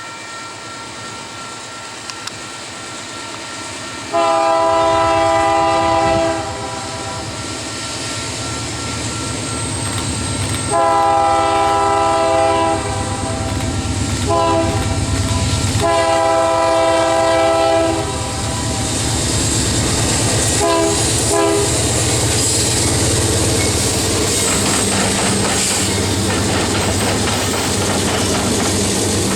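Diesel locomotive's chord horn sounding the grade-crossing signal: long, long, short, long, with a few brief toots after. The freight train's rumble and the clickety-clack of its wheels grow louder as it comes by.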